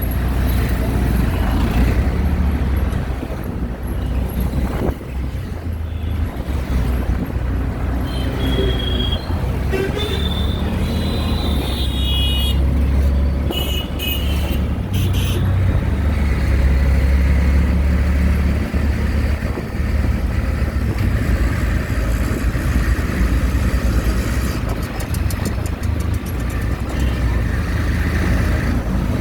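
Riding in an auto-rickshaw through street traffic: a steady low engine and road rumble, with horns honking in several short toots between about eight and fifteen seconds in.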